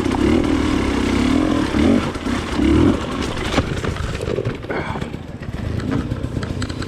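Off-road trail motorcycle engine running under way, its note rising and falling with the throttle, over a noisy rush with a few sharp knocks from the rough track.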